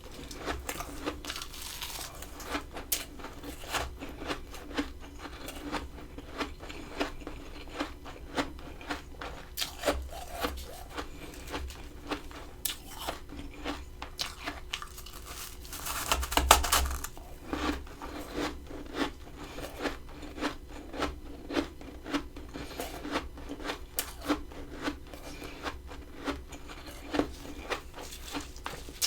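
Close-up chewing of crunchy freezer frost: a run of sharp crunches, a few a second, with one louder, longer crunch about sixteen seconds in.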